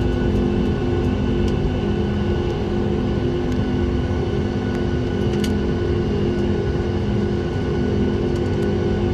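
The CFM LEAP-1B turbofan engines of a Boeing 737 MAX 8 heard from inside the cabin: a steady drone of several held tones over a deep rumble.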